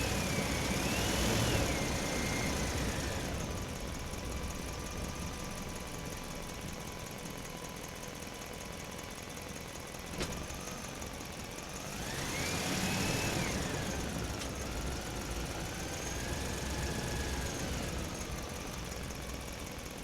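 Toy tractor's small motor running over a low rumble, its whine rising and falling in pitch in two spells, near the start and again about twelve seconds in. A single sharp click about ten seconds in.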